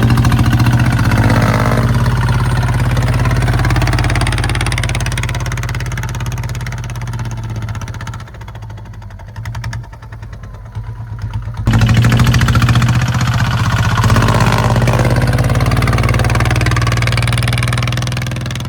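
Kubota ZT155 walking tractor's single-cylinder diesel engine running steadily while plowing. It falls quieter about eight seconds in and comes back loud abruptly near twelve seconds.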